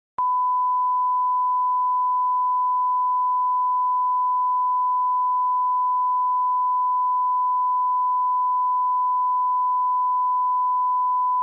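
Steady 1 kHz sine-wave line-up test tone at the −18 dBFS reference level, beginning a moment in and holding one unchanging pitch and level.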